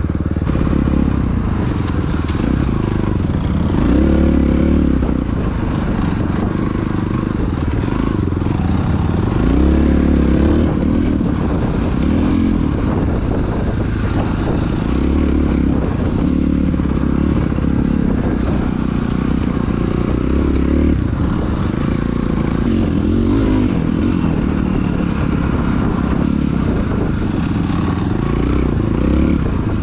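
Dirt bike engine running under way, its pitch climbing and dropping every few seconds as the throttle is worked.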